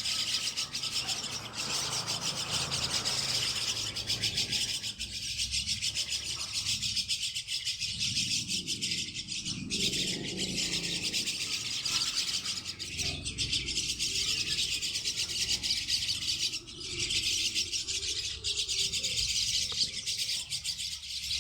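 Many young Javan mynas (jalak kebo) giving harsh, rasping chatter together, dipping briefly about three-quarters of the way through.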